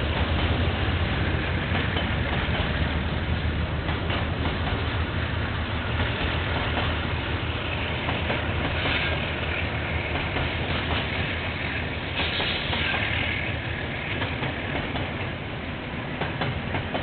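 KiwiRail freight train rolling past: a steady low rumble of wagons with the clickety-clack of wheels over rail joints, and a brighter, higher rushing noise that swells twice. Heard through a security camera's microphone.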